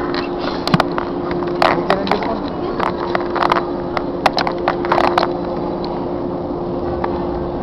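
Steady hum from a stationary commuter train, with a run of sharp knocks and clicks over the first five seconds or so that then stop, leaving the hum alone.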